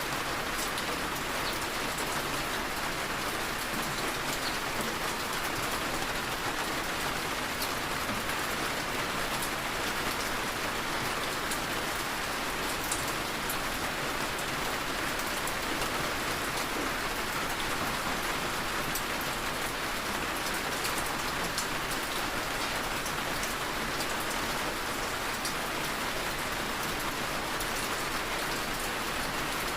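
Heavy, steady rain falling on a surface, with fine scattered drop patter and no thunder.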